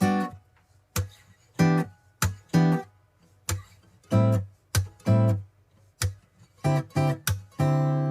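Background music: an acoustic guitar strumming separate chords with short silences between them, then one longer held chord near the end, the intro to a song.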